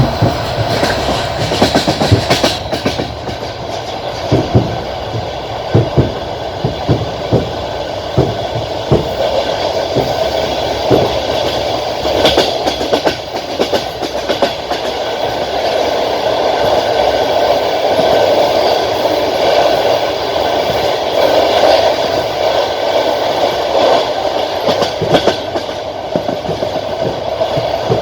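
Passenger train running at speed, heard from a carriage window. Under a steady rumble, the wheels clatter over rail joints in irregular groups of sharp clicks.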